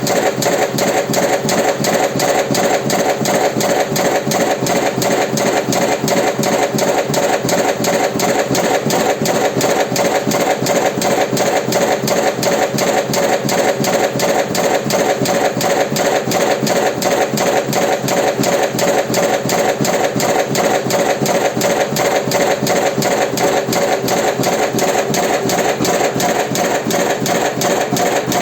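Automatic electric cigarette-rolling machine running, a steady mechanical clatter repeating about three times a second.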